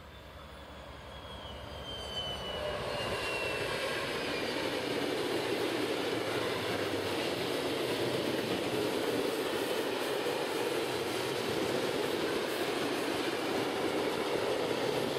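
Freight train hauled by a DB Class 232 (Ludmilla) diesel locomotive passing close by. The engine note swells with a whine that falls in pitch as the locomotive comes up and goes past over the first three seconds. Then comes a steady rumble of the wheels of hopper and tank wagons rolling over the rails.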